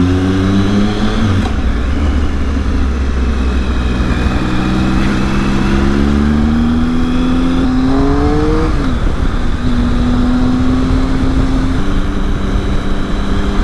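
Triumph Speed Triple's three-cylinder engine running on the road under light throttle. Its pitch climbs gradually, drops sharply a little past halfway, then holds steady, with wind noise on the helmet microphone throughout.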